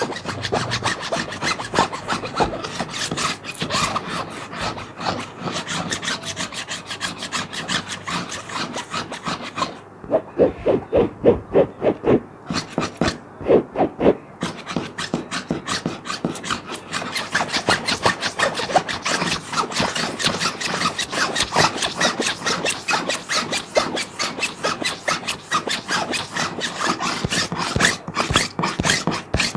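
Scratching on a plastic sheet: fast, continuous rasping strokes, turning slower and louder for a few seconds in the middle, with several strokes a second, then quick again.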